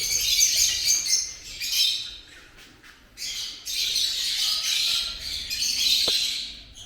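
Many lovebirds chattering and squawking in high, shrill calls. The chatter drops away for about a second a little past two seconds in, then picks up again.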